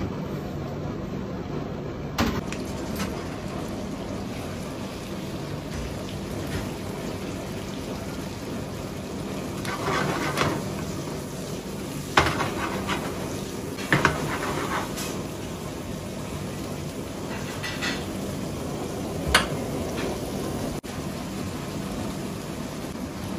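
Fish pieces sizzling in hot oil in a frying pan over a gas burner, a steady fry, broken by a few short clatters and knocks of the pan and its contents as it is tossed.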